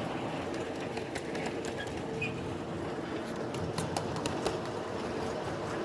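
Ride-on live-steam miniature train running along its track: a steady rolling noise with a low hum and irregular clicks from the wheels over the rails.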